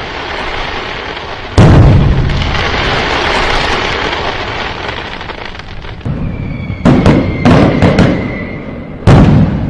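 Fireworks going off. A loud aerial burst about a second and a half in trails off into a long crackle. Later a steady whistle sounds, with a quick run of sharp bangs, and another loud burst comes near the end.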